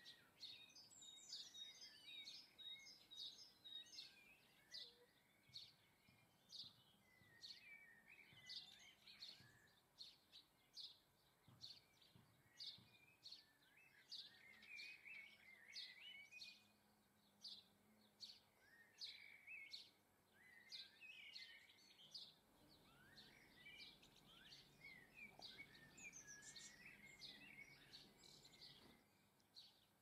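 Faint chirping and twittering of small garden birds: a steady run of short, high chirps with twittering phrases between them.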